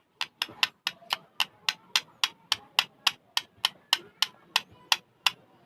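Pet parrot making a steady run of sharp clicks, about four a second, for around five seconds.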